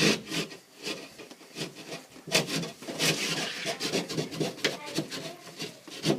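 Drywall being cut and scraped by hand, with irregular rasping strokes.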